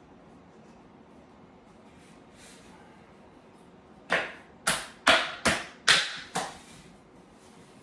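Six sharp knocks, about two a second, as wooden chair parts are knocked together onto their dowels during assembly.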